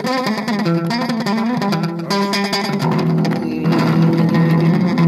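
Bass guitar played through an amplifier, a run of plucked notes over a steady backing groove.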